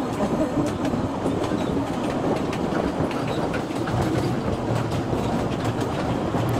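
Kurobe Gorge Railway narrow-gauge trolley train running, its wheels clattering steadily along the track with frequent clicks.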